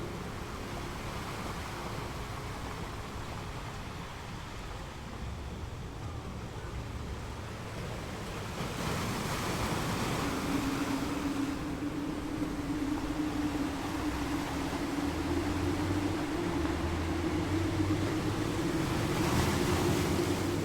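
Ocean surf: a steady wash of waves, swelling twice as waves break and run up the shore. About halfway through a steady low hum joins in.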